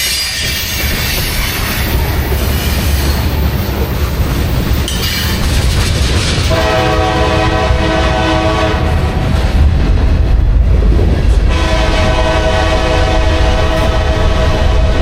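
Diesel freight locomotive sounding its multi-note air horn: a long blast starting about six seconds in, then after a brief break another that runs on, over the steady low rumble of the passing train.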